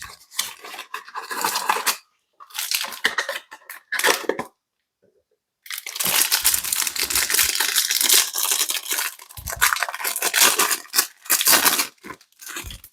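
A cardboard trading-card box being torn open, its packaging ripping and crinkling in a few short bursts, then after a brief pause in a long continuous tearing.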